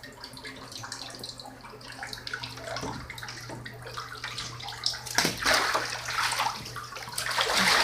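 Water sloshing and dripping in a full bathtub as a goose moves and paddles in it, with louder splashes about five seconds in and splashing building near the end.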